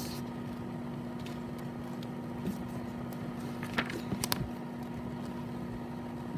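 Steady low hum over room noise, with a few sharp clicks about four seconds in.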